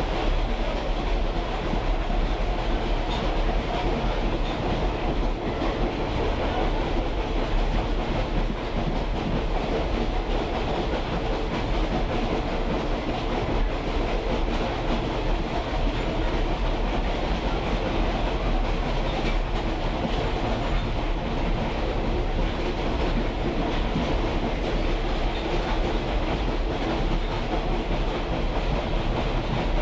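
Railroad caboose rolling along the track behind a diesel locomotive: a steady rumble and rattle of the car over the rails with a constant low hum, unchanging throughout.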